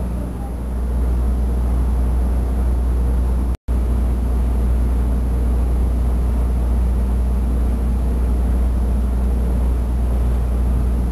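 Steady low rumble of a ferry's diesel engines heard from on deck, with some wind on the microphone. The sound cuts out for an instant about three and a half seconds in.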